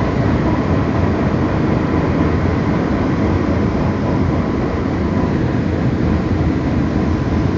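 Passenger train running, heard from inside the carriage: a steady rumble and rolling noise from the wheels on the track, with a faint steady whine.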